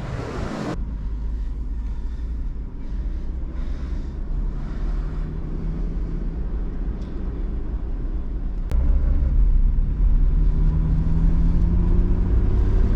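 The 4.3-litre Vortec V6 of a 2002 Chevy Blazer running as the truck pulls away on a test drive after new transmission shift solenoids. The low rumble steps up suddenly about nine seconds in, and the engine note then rises slowly as it accelerates.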